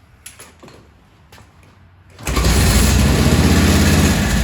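1942 Harley-Davidson flathead V-twin, warmed up, catching after a few light clicks from being turned over by hand on the kick-start. About two seconds in it fires and runs loudly and steadily.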